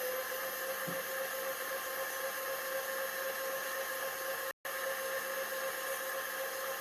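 Electric stand mixer running steadily with a constant whine, beating eggs and sugar for a cake dough. The sound cuts out for a split second about two-thirds of the way through.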